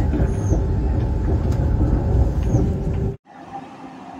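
ETR 500 Frecciarossa high-speed train carriages passing close at speed: loud rumble of wheels on rail with occasional sharp clicks. It cuts off suddenly about three seconds in, leaving a much quieter steady background noise.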